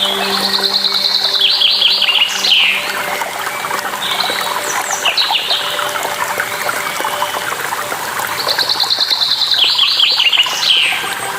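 A songbird sings the same phrase three times, a fast high trill ending in a few quick falling notes. Water rushes and trickles steadily underneath.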